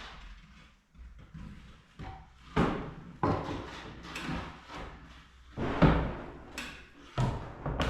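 A run of irregular knocks and thuds, roughly one every half second to a second, the loudest a little before six seconds in.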